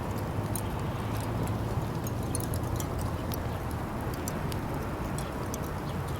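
Fire crackling in a Uniflame Fire Grill fire stand: sharp pops scattered irregularly over a steady low rumble.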